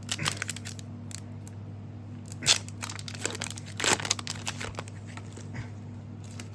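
Foil booster pack wrapper crinkling and being torn open, in short irregular crackling bursts, loudest about two and a half and four seconds in, over a steady low hum.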